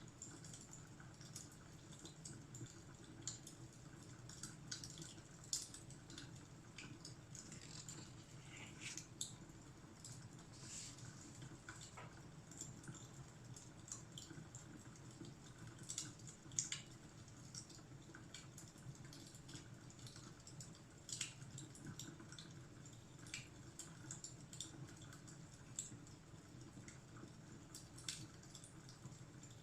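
Fire crackling: scattered small pops and snaps at irregular moments, a few louder ones, over a faint steady low hum.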